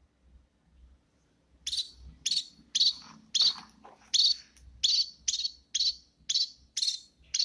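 Small birds chirping: after a quiet start, a quick, regular series of loud, sharp chirps, about two a second, begins nearly two seconds in.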